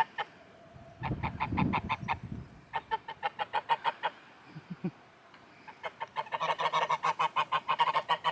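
Geese honking in fast runs of short repeated calls, in three bouts, the last the longest and loudest.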